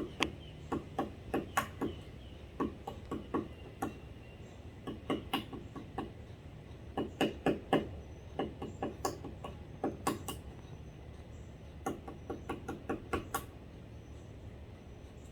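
Woodpeckers foraging, pecking at wood: sharp irregular taps in quick clusters of a few strikes, with short pauses between clusters, stopping near the end.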